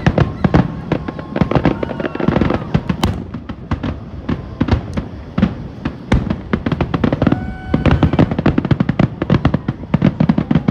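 Aerial fireworks shells bursting in quick succession: a dense run of sharp bangs and crackles.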